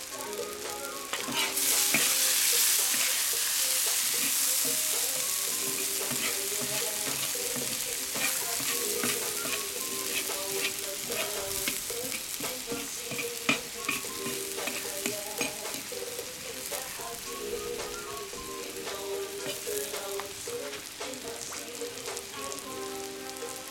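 Meat and julienned carrots sizzling in hot oil in a cast-iron kazan for plov, stirred with a metal skimmer that clinks and scrapes on the pot. The sizzle swells loudest about two seconds in, then settles to a steady frying hiss.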